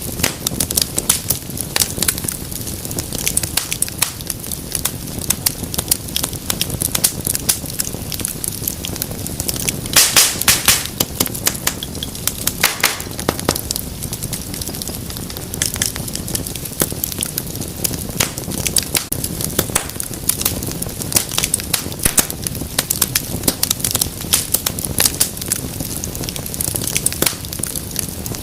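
Wood fire crackling and popping over a low, steady rumble of flames. A cluster of louder pops comes about ten seconds in.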